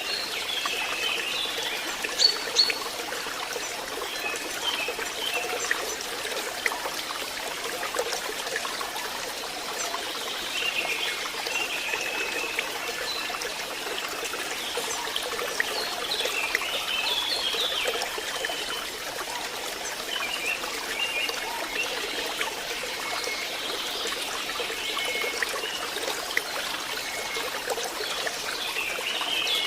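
Water trickling and splashing steadily, as in a forest stream, with short bird chirps now and then and two brief ticks about two seconds in.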